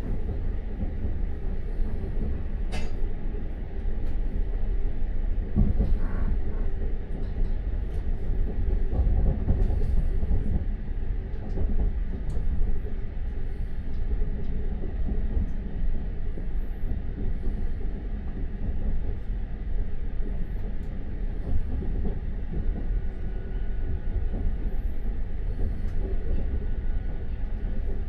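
Passenger train running along the track, heard from inside the carriage: a steady low rumble with a few sharp clicks.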